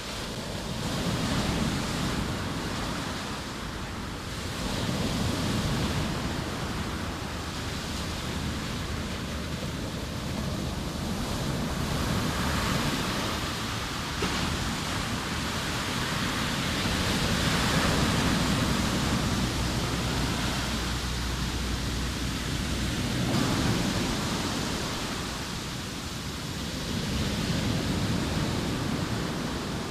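Sea waves breaking and washing on the shore: a continuous surf rush that swells and ebbs every few seconds, with some wind on the microphone.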